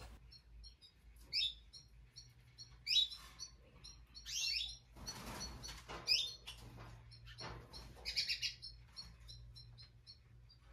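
Small birds chirping: a string of short high chirps broken by several louder, sweeping calls, with a brief rustle about halfway through.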